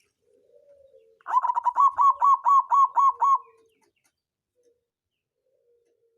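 Zebra dove (perkutut) of the local songgo ratu type singing: a few soft low notes, then a run of quick, evenly spaced higher notes at about four a second, trailing off into a low note.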